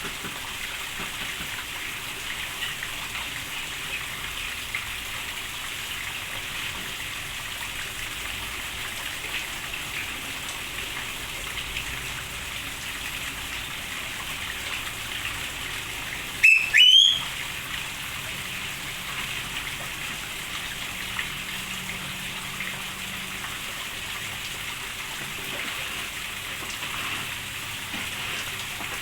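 Steady rain falling. About halfway through comes a short, loud rising whistle.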